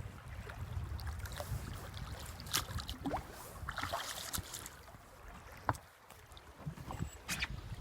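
Water rushing and splashing around a small boat floating down a mountain river, with scattered short knocks and splashes. A low rumble of wind runs on the microphone.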